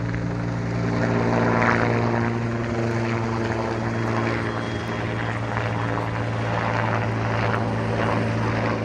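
Rescue helicopter running steadily overhead: a steady low drone from the rotor and engine.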